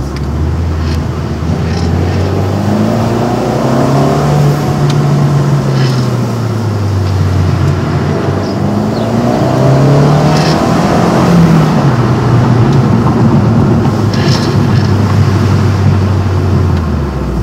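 Abarth Punto Evo's turbocharged 1.4 MultiAir four-cylinder heard from inside the cabin while the car is driven hard. The engine note climbs in pitch and falls back several times as the driver accelerates, lifts and changes gear.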